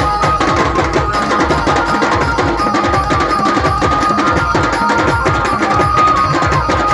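Chhattisgarhi dhumal band music: fast, dense drumming with a steady, high melody line carried over it.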